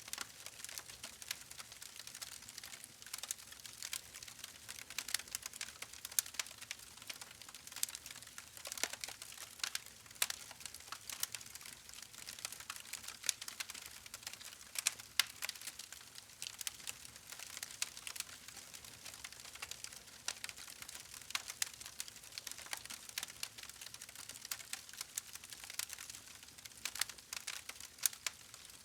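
Wood fire crackling: a dense, irregular run of small sharp pops and snaps over a faint steady hiss.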